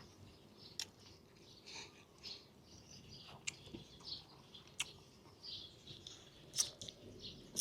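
Faint eating sounds: chewing and mouth noises, with a few sharp little clicks at irregular intervals, the loudest near the end.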